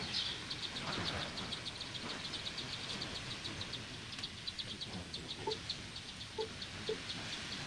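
A steady series of short, high chirps, about five a second, from a small chirping creature. A few faint soft knocks come about five to seven seconds in.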